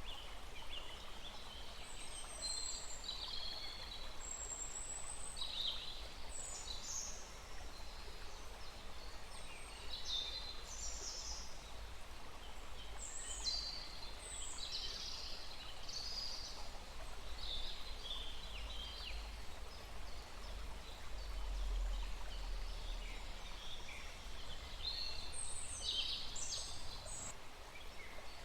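Several songbirds give short, high chirps and calls again and again over the steady rush of a small forest stream.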